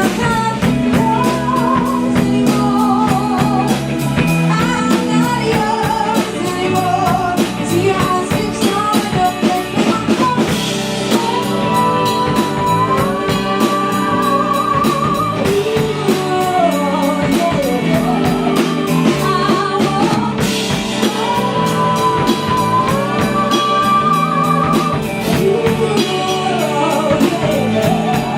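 A band playing a song live: drum kit and guitar under a female lead vocal, with several long held notes wavering in vibrato.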